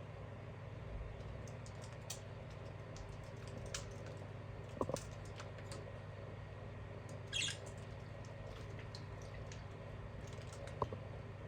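Small pet birds moving about in their cage and new bird bath: scattered light taps and scratches, with a short high-pitched sound about halfway through, over a steady low hum.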